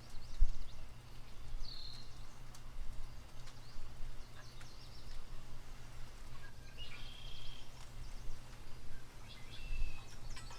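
Small birds chirping in short, scattered calls and trills over a steady low rumble, with a few faint clicks.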